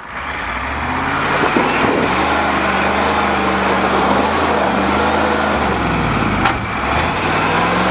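Ford pickup truck engine revving hard under load as the truck pushes into pond ice. Its pitch climbs over the first couple of seconds, holds, drops briefly near six seconds and climbs again, with a loud rushing noise over it.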